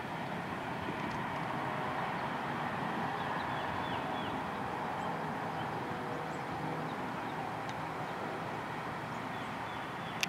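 Freight train cars rolling past on the rails: a steady rumble and rattle of wheels on track, with a few faint short high squeaks about three seconds in.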